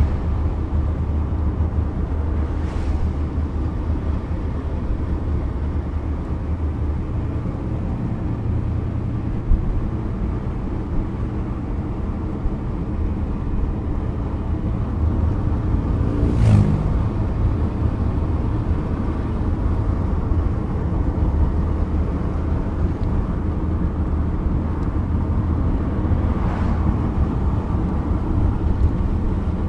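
1987 Pontiac Firebird Trans Am's 5.7-litre TPI V8 running steadily under way, heard from inside the cabin as a low drone. There is a brief louder whoosh about halfway through.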